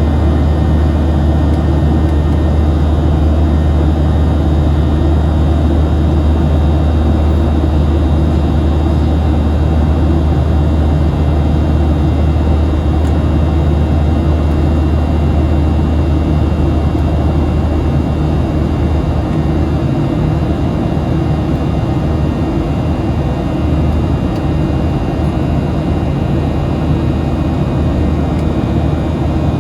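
Steady cabin noise of a Boeing 737-700 in flight, heard from a forward window seat: the low drone of its CFM56-7B jet engines mixed with the rush of air over the fuselage. The drone eases slightly about two-thirds of the way through.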